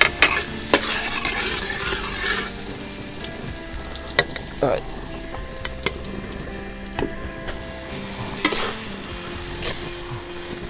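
Garlic and shallot sizzling in hot oil in a steel wok, stirred with a metal spatula. The sizzle is strongest for the first two seconds or so, then softer, with scattered scrapes and knocks of the spatula against the wok.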